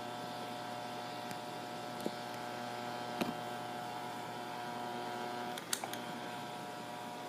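Asahi PF 620 electric fan running with a steady buzzing hum and a few sharp rattling clicks, the loudest about six seconds in; the buzzing and rattling are an abnormal fault noise from the fan.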